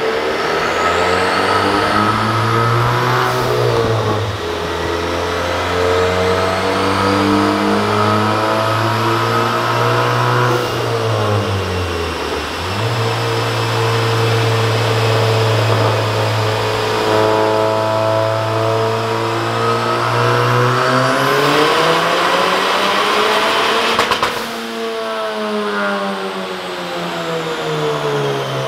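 Ford Fiesta ST's turbocharged engine, fitted with a larger turbo, running hard under load on a dynamometer. The pitch dips briefly about twelve seconds in, climbs steeply near the end, then falls away as the engine comes off the throttle. A thin high whine runs above the engine note.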